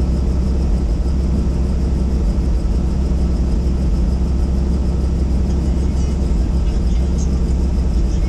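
Helicopter in flight: the rotor and turbine engine make a steady, loud drone that does not change.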